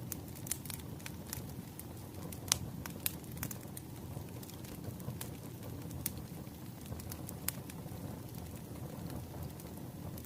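Wood fire crackling: irregular sharp pops and snaps over a steady low rumble of burning logs, one pop standing out about two and a half seconds in.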